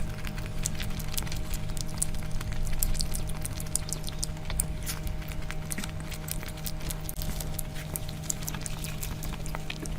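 Close-miked eating sounds: chewing and lip smacking, a dense run of quick wet clicks, over a steady low hum.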